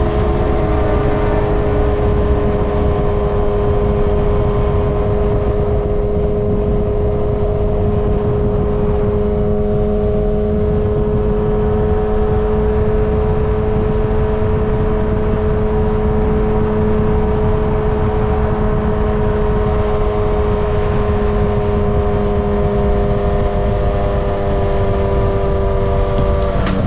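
Yamaha XJ6's inline-four engine, breathing through a Dominator GP full aftermarket exhaust, running under steady throttle at a near-constant engine speed while riding. The engine note falls slightly at the very end.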